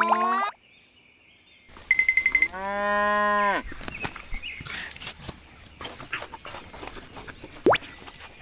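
A cow moos once, a long call of about a second that starts about two and a half seconds in. Scattered clicks and rustling follow.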